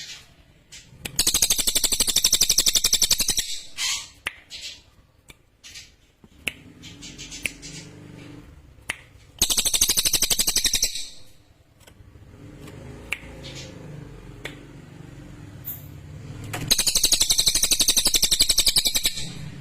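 A cililin songbird singing three loud, sharp bouts of very rapid, high-pitched chattering trills, each about two seconds long. Soft clicks and a low hum fill the gaps between the bouts.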